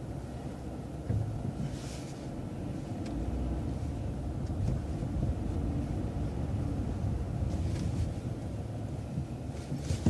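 Transit bus running, a steady low engine and road rumble that grows a little louder a few seconds in, with a few short high hisses.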